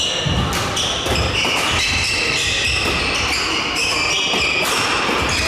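Badminton doubles play on an indoor court: repeated sharp racket hits on the shuttlecock and footfalls on the court floor, mixed with short high squeaks from shoes.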